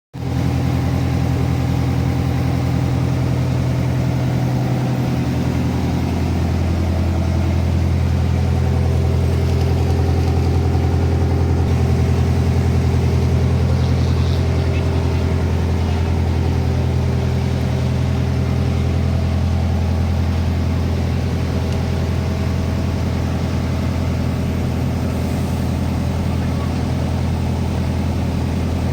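Truck engine running steadily at low revs, a deep, even drone with little change in pitch that starts abruptly.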